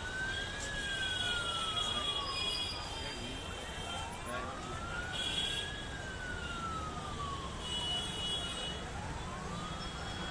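A siren wailing slowly, its pitch rising for about two seconds and falling for about three, peaking about every five seconds.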